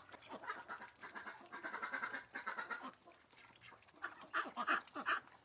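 Duck-like quacking: runs of short nasal quacks for about three seconds, a brief lull, then a few more quacks near the end.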